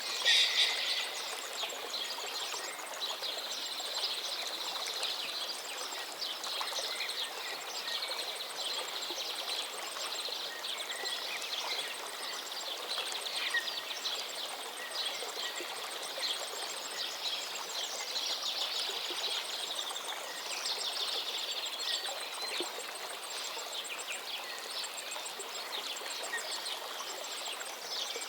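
A river or stream flowing steadily, with birds singing and calling over it in short chirps and rapid trills. One louder call comes right at the start.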